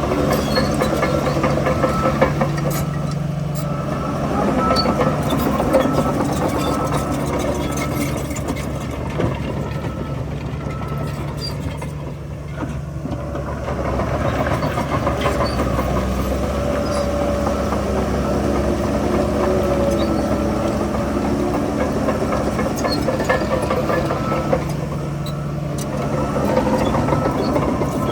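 Diesel engine of heavy earthmoving machinery running under varying load, easing off briefly about halfway through, with occasional sharp metallic clanks.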